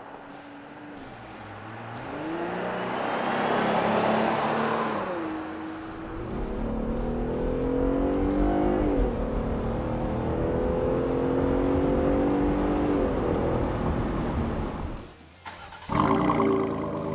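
Jeep Gladiator engine through a Milltek Sport cat-back performance exhaust, driving past and then accelerating, its pitch climbing and dropping back at each gear change. Near the end the sound falls away and comes back suddenly loud.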